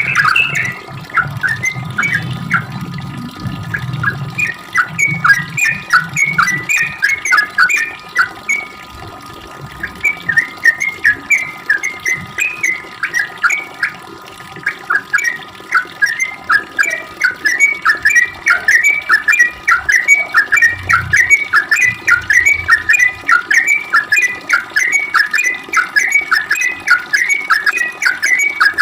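Yellow-vented bulbul (trucuk) singing a long, continuous run of fast chattering notes, with short breaks about 8 and 14 seconds in.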